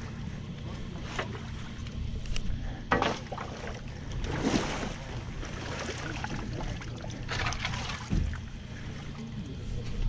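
Off-road vehicle engine idling with a low, steady rumble, with short scuffing and rustling noises now and then.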